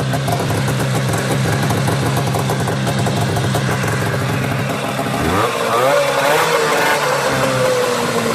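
Newly installed snowmobile engine running steadily at idle. About five seconds in it revs up sharply, and its pitch then sinks slowly as it comes back down.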